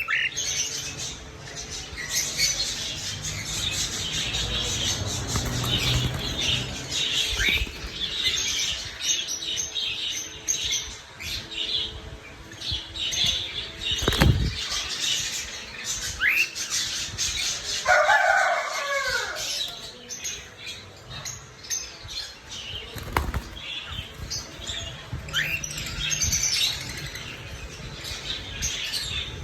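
Pet cockatiel flapping its wings and rustling, with short rising chirps now and then and one longer falling call about two-thirds of the way through. Two sharp thumps stand out, one near the middle and one later.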